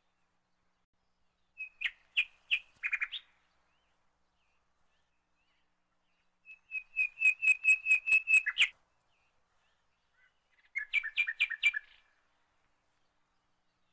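A songbird singing three short phrases of rapid, repeated high chirps. The longest is a steady trill of about a dozen notes, about five a second, in the middle; shorter groups come near the start and near the end.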